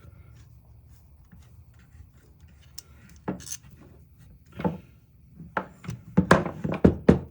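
Clicks and knocks of hard metal and plastic parts being handled while the saw is taken apart to free its motor. A few separate knocks start about three seconds in, and a quicker run of clatter comes near the end.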